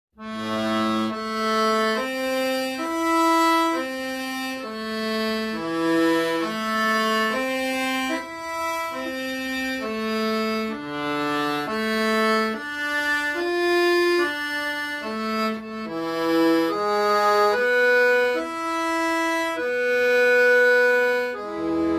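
Accordion playing a slow melody in held notes, starting suddenly after silence.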